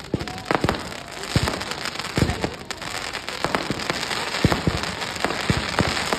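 Fireworks going off: an irregular string of sharp bangs over a continuous crackling hiss.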